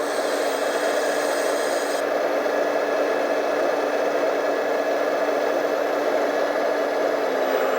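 Radio-controlled model vehicle running steadily: an even mechanical whir with a constant low hum throughout.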